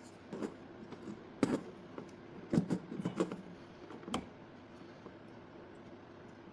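A few scattered knocks and clinks of metal parts and tools being handled while the inlet manifold and its bracket are worked loose; a small cluster comes near the middle.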